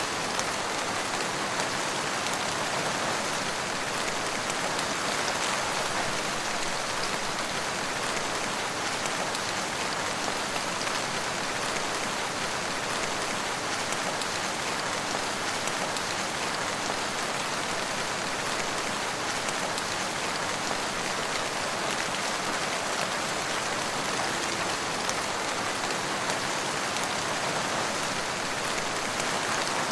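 Steady rain falling and pattering on surfaces, an even hiss of dense drops with no letup.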